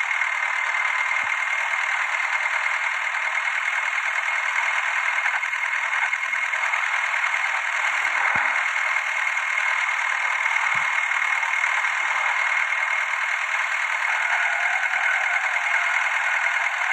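Tractor engine running steadily, with a thin steady high whine over it.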